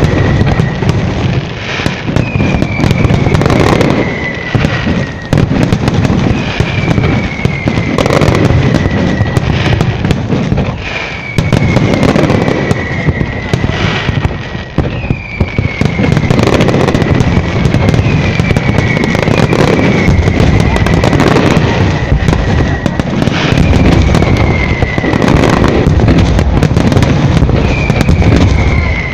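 Fireworks display: continuous booms and crackle of bursting aerial shells, with a high whistle that slides down in pitch, repeating every two to three seconds.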